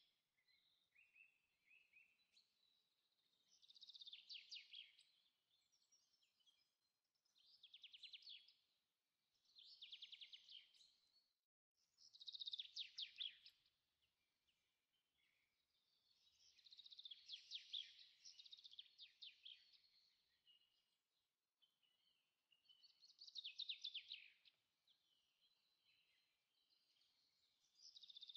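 Faint birdsong: a small songbird repeating short, high, rapidly trilled phrases about every four seconds, one of them longer near the middle.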